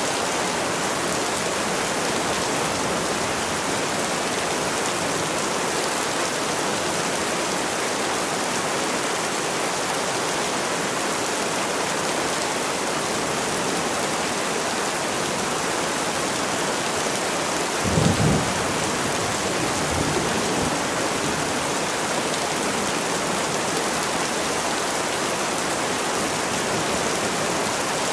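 Steady, even rain. About two-thirds of the way through, a brief low rumble sounds under it, and a fainter one follows a couple of seconds later.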